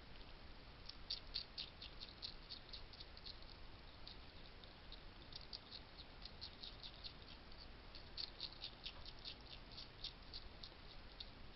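Wild hedgehog chewing at a feeding station: faint runs of quick crunchy clicks, about five a second, in three bouts with short pauses between.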